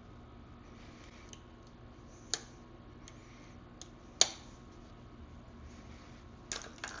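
Sharp metallic clicks of a wrench on the rear brake adjuster nut, which is rounded off: two separate clicks, the second louder, then a short cluster of clicks near the end.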